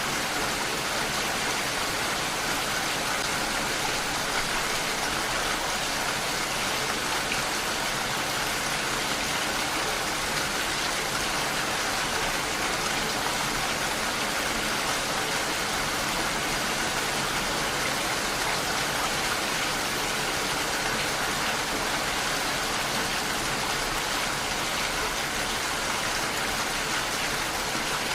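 Steady rainfall, an even hiss of rain falling without let-up.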